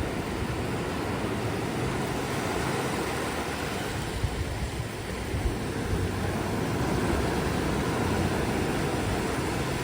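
Ocean surf breaking and washing on a beach, a steady rushing noise with a low rumble.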